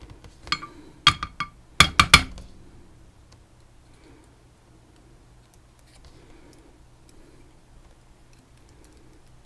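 Small metal lock pins and tweezers clinking and clicking as pins are picked out of a Tesa TK100 lock core. A few sharp clinks in the first two seconds, the loudest a quick run of three near two seconds in, then faint handling ticks.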